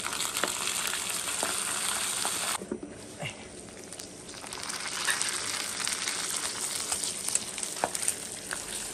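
Pork belly frying in hot oil in a small pot on a portable gas stove, a steady sizzle with short clicks of chopsticks against the pot as the meat is stirred. The sizzle drops away for about two seconds a little before the third second, then comes back.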